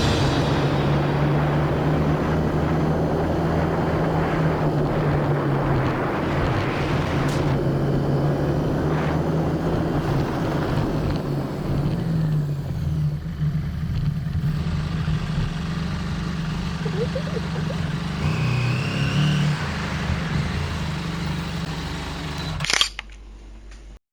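KTM 790 Adventure's parallel-twin engine running steadily under way, with wind and road noise. The engine hum shifts a little in pitch as it goes, and the sound cuts off abruptly near the end.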